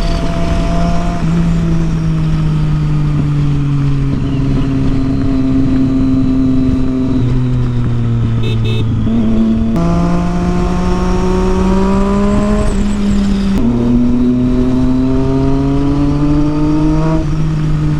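Triumph Street Triple 675's three-cylinder engine through a Yoshimura exhaust, ridden on the road. The note sags slowly, then steps up sharply about ten seconds in and again about four seconds later, climbing each time under throttle.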